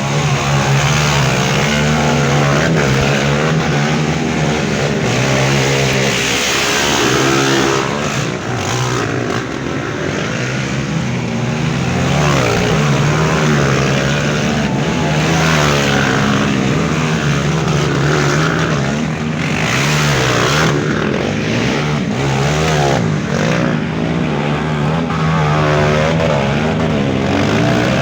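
Several trail motorcycle engines revving hard, their pitch climbing and falling again and again, over a steady lower engine drone.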